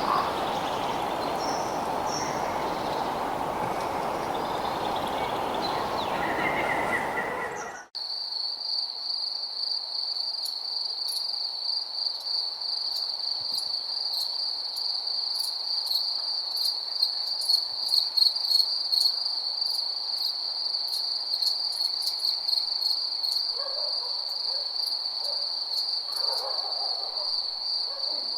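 A nature soundscape: for the first eight seconds or so a steady noise bed with bird chirps, then a sudden cut to crickets trilling, one steady, high, unbroken trill with faint ticks above it. Near the end a few faint low calls come in.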